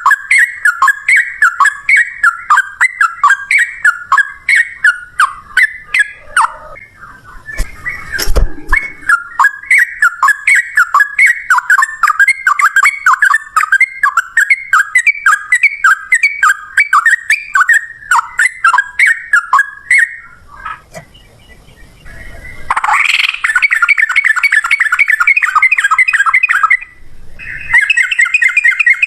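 Yellow-vented bulbul (trucukan) singing: a long run of short, rapid bubbling notes that stops briefly a few times, then a denser rolling phrase near the end. There is one low thump about eight seconds in.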